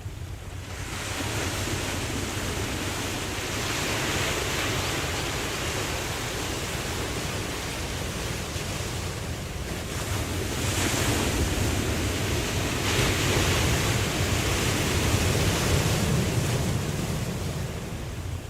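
Ocean waves breaking and washing ashore in a steady surf, with swells that build and fade, the loudest about halfway through and again near the end.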